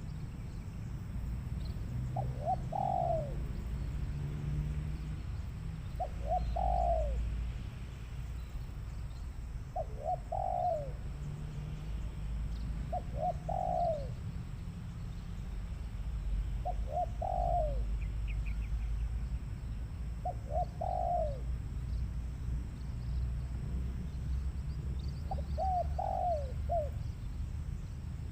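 Spotted dove cooing: seven short phrases of falling notes, repeated about every three to four seconds. A steady low hum runs underneath.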